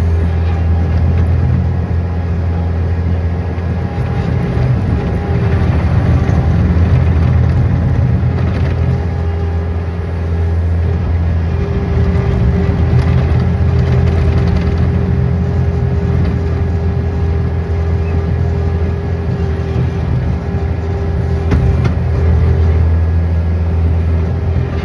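An engine running steadily under a heavy, even low hum, with a steady higher whine over it.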